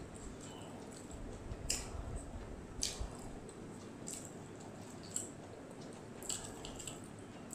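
Close-up eating sounds of a person chewing fried rice and chili chicken eaten by hand: wet mouth smacks and squishy chewing, with sharp smacks about once a second.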